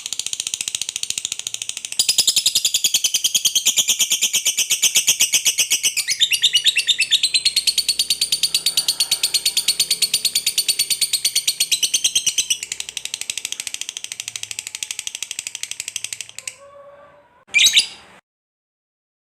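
Lovebird singing one long 'ngekek' trill, a very rapid chattering of even pulses lasting about sixteen seconds, louder from about two seconds in and easing off near the end. One short call follows after it stops.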